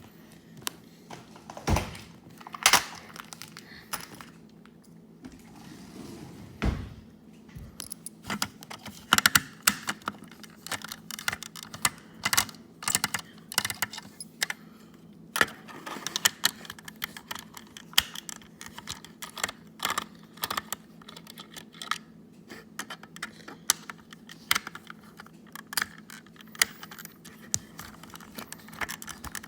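Plastic toy steamroller being handled and taken apart by hand: irregular clicks, taps and knocks on hard plastic, with a few louder knocks in the first seven seconds.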